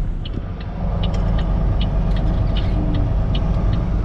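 Semi truck's diesel engine running steadily, heard from inside the cab as a continuous low drone, with light regular ticks about two to three times a second.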